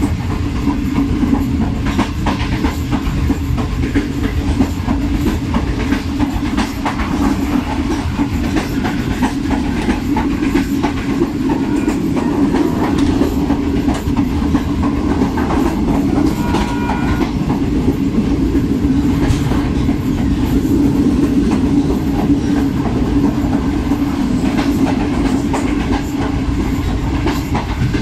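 Passenger train coach running along the track, heard from inside by an open window: a steady rumble of wheels on rail with irregular clicks as the wheels cross rail joints.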